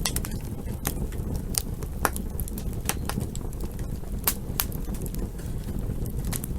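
Campfire crackling: sharp, irregular pops and snaps, several a second, over a steady low rumble from the burning fire.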